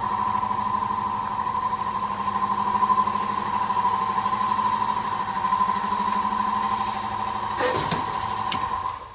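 Shop air compressor running with a steady, pitched hum, two sharp clicks near the end, then cutting off about nine seconds in.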